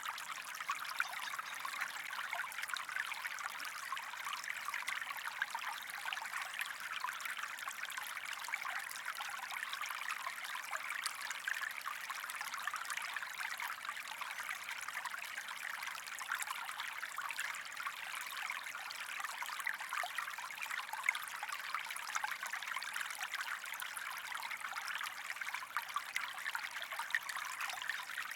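Creek water running and trickling steadily over stones, an even splashing burble with no pauses.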